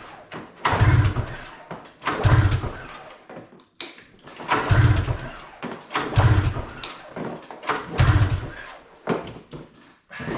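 Snowmobile engine being pull-started by its recoil rope, about six hard pulls, each turning the engine over briefly without it catching: it doesn't want to start.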